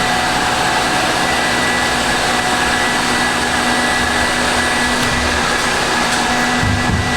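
Robot vacuum cleaner running: a steady motor whine over fan and brush noise, with a few fixed tones and no change in level.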